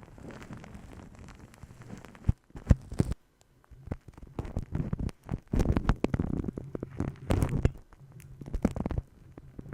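Close-up ASMR massage and tapping sounds on the microphone: a few sharp taps about two to three seconds in, then stretches of dense rubbing and crackling friction.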